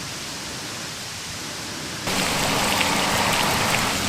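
Hamburger patties sizzling on a ridged iron griddle plate over a campfire: a steady frying hiss that jumps louder about two seconds in, with small spitting pops.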